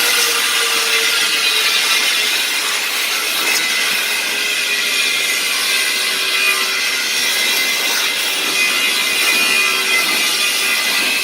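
Industrial vacuum cleaner with a 10 hp compressor-type motor running at full suction, sucking sand through a 2-inch nozzle: a loud, steady rushing hiss with a high whine over it.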